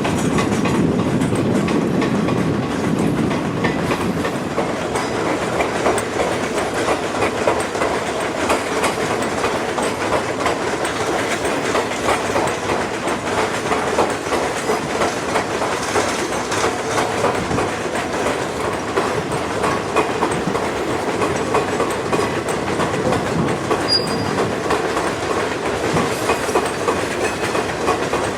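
Freight train of oil tank cars rolling past, the steel wheels clicking steadily over the rail joints.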